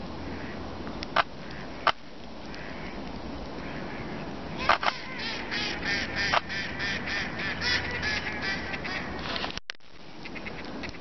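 Ducks quacking in a rapid run of calls, about three a second, lasting some five seconds from near the middle, over a steady rush of wind noise. A few sharp clicks come before the calls.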